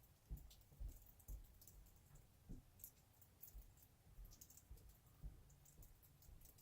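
Very faint, irregular clicks and soft low taps over near silence.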